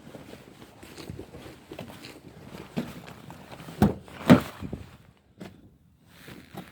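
Footsteps and handling noise, a run of irregular small knocks with two louder thumps about four seconds in.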